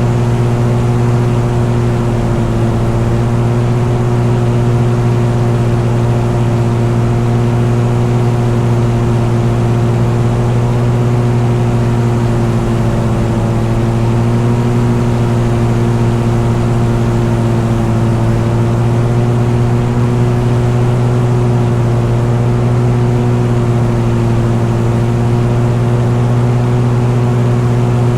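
An engine running at a steady, unchanging speed: a constant loud drone with no rise or fall in pitch.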